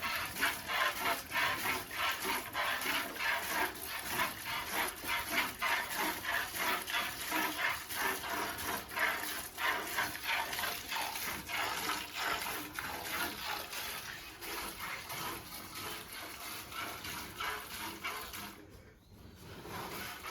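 Cow being milked by hand: rhythmic squirts of milk streaming into a bucket, about two a second, with a short pause near the end. The cow is letting her milk down normally.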